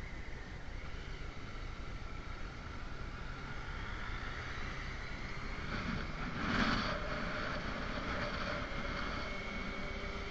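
Motorcycle engine running steadily at cruising speed, with wind rushing over the microphone. There is a brief louder swell about six to seven seconds in.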